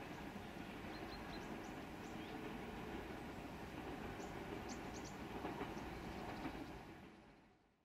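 A passenger train's carriages rolling past on the rails: a faint, steady rumble that fades out near the end. A few short high chirps sound over it.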